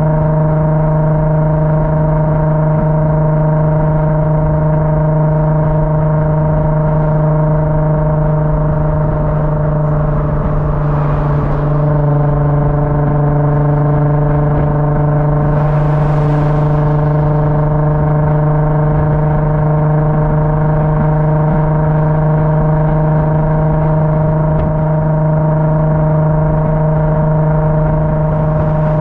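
Car engine droning at steady, unchanging revs. A brief rush of hiss comes twice, about eleven and sixteen seconds in.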